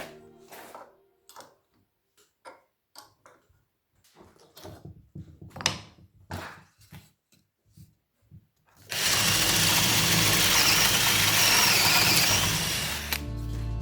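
Scattered clicks and knocks of tools being handled, then a power tool running loudly and steadily for about four seconds before stopping.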